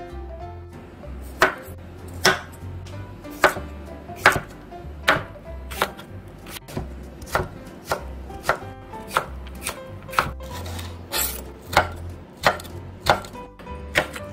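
A chef's knife chopping on a wooden cutting board. It makes sharp, regular knocks a little more than once a second, starting about a second and a half in, as it slices cucumber and then green chili peppers.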